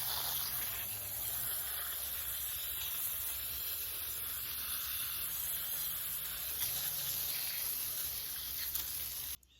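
Garden hose spray jetting water to rinse soil off freshly dug ginger rhizomes, a steady hiss that cuts off suddenly near the end.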